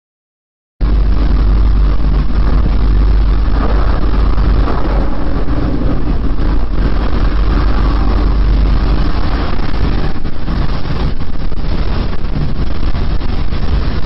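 A loud, steady, deep rumble with a rough, noisy roar above it, cutting in suddenly about a second in after silence: one of the unexplained low rumbling 'strange sounds' recorded in 2011.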